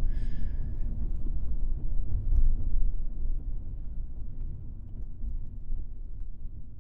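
Low, steady rumble of a car driving, heard from inside the cabin, fading away near the end.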